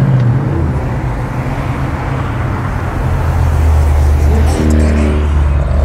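Car engine and exhaust droning steadily inside the cabin at highway cruising speed, with a deep low hum. Another car's exhaust is heard briefly as it runs alongside, about four and a half seconds in.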